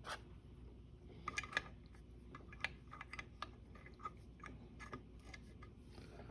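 Faint, irregular clicks and light taps of small metal valve parts being handled, as levers are fitted and repositioned in the valve body by hand.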